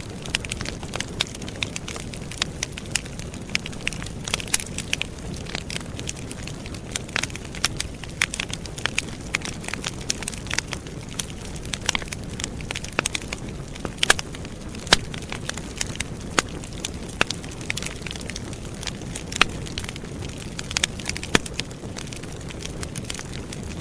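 Wood campfire burning and crackling: a steady low rush of flames with many irregular sharp pops and snaps from the burning logs, the loudest pop about halfway through.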